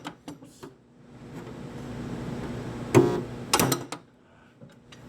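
A stud-welder dent puller fires one short electric buzz about three seconds in, followed by a few sharp metallic clicks.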